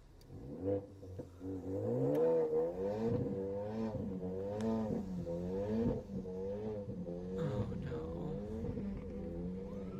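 Car engine revving: its pitch climbs over the first two seconds, then rises and falls again and again, about once a second.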